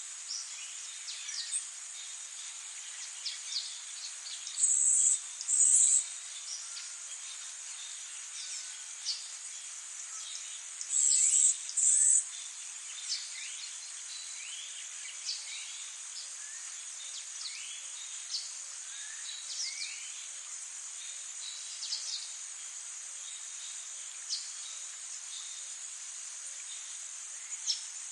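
A continuous high-pitched insect trill, like crickets or bush-crickets, with short bird chirps and calls scattered throughout. Twice, about five and eleven seconds in, a louder pair of high bursts stands out.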